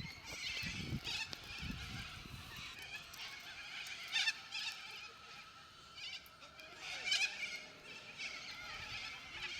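A large flock of birds chattering and calling at once, a dense high twittering with louder bursts of calls every second or two. A few low rumbles on the microphone in the first two seconds.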